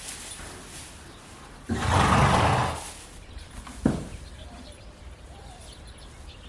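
A horse blowing out hard through its nostrils for about a second, then a single sharp knock.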